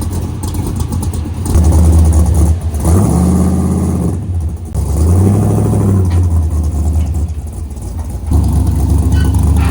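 Classic car's engine running loud and being revved several times, its pitch climbing and dropping back between revs.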